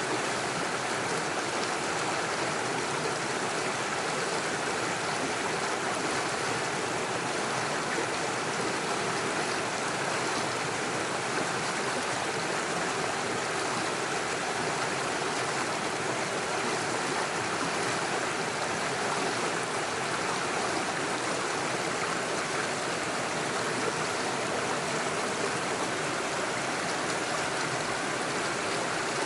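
Small rocky stream running steadily over stones and little waterfalls, a continuous even rush of water.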